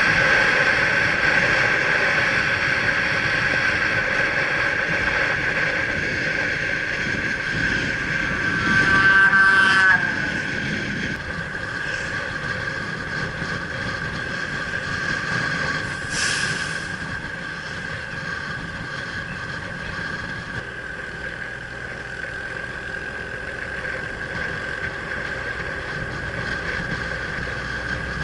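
Motorbike running at a steady speed on the road, with engine and wind noise and a steady whine. Around nine seconds in, a louder horn-like tone falls in pitch as it passes.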